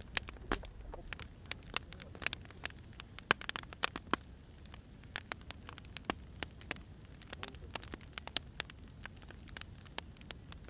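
Wood fire crackling: irregular sharp pops and snaps from burning firewood over a soft, steady low rumble of the flames.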